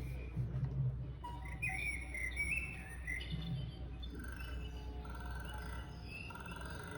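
Recorded birdsong played from a children's sound book: chirping, warbling calls, then a run of short even notes repeated about once a second.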